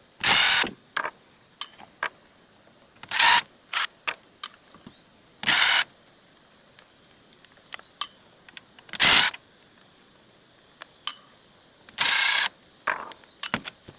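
Small hand tools and little metal parts clicking and clattering while tiny nuts and set screws are worked off an oscilloscope's front-panel knobs. Five louder rasping bursts of about half a second come roughly every three seconds, with scattered light clicks between them.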